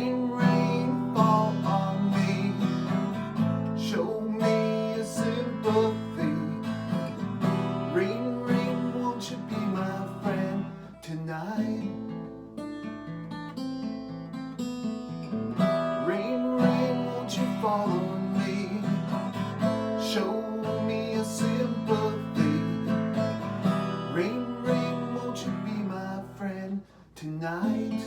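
Acoustic guitar playing an instrumental passage of a slow original song, strummed and picked, with sliding notes.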